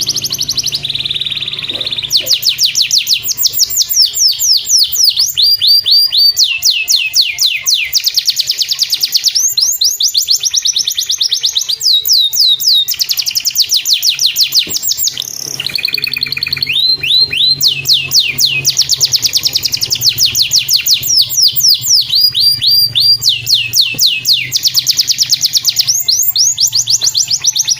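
Domestic canary singing continuously in fast rolls: long runs of rapid, sweeping high notes repeated many times a second, switching from one trill to the next every second or two.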